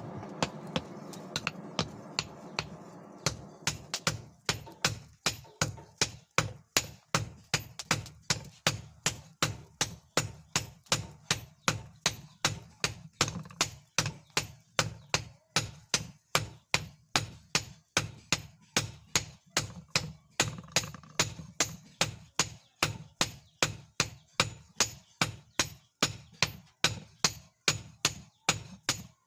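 Hammer blows on leaf-spring steel being forged into a knife blade, a steady run of sharp ringing strikes about two a second. A steady hum fades out over the first three seconds, before the strikes begin.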